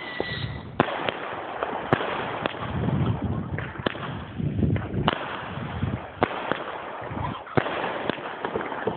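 Fireworks going off: a string of sharp bangs and crackling pops, several heavier reports about a second apart, over a steady hiss.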